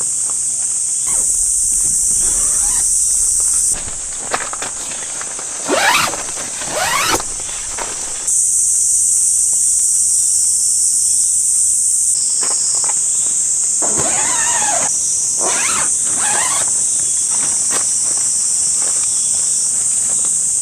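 A steady, high-pitched drone of crickets or other insects. It is broken by a few short sweeping and rustling sounds a little over a quarter of the way in and again past the middle.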